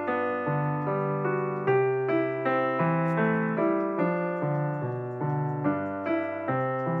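Background piano music, a gentle melody of single notes and chords at an even pace.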